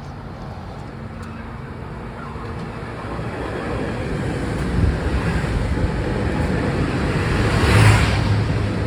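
Metro-North electric commuter train running through the station, its rumble growing steadily louder and peaking with a brief rushing hiss near the end.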